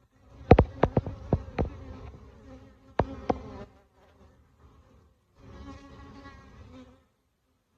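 A honeybee colony buzzing, a steady hum that swells near the end. Mixed with it are sharp knocks: a quick run of them in the first two seconds and two more about three seconds in.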